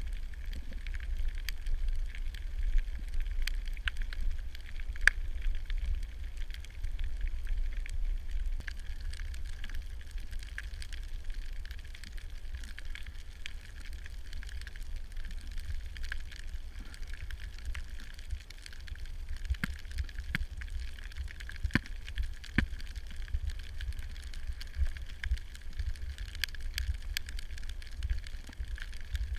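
Underwater ambience as picked up by a camera: a steady low rumble of water with scattered crackling clicks.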